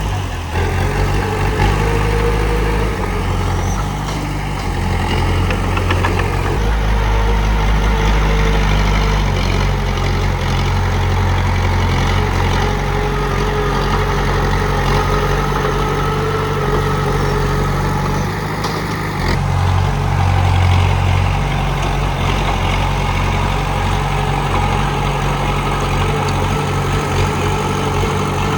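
Komatsu D31P crawler bulldozer's diesel engine running steadily, its low note shifting several times as the load changes.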